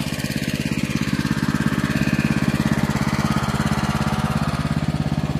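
An engine idling steadily, with a rapid, even pulse.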